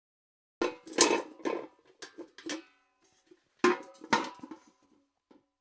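Metal bucket clanking as it is knocked and handled: a quick run of sharp metallic knocks with ringing, starting about half a second in, then two more loud clanks near the four-second mark.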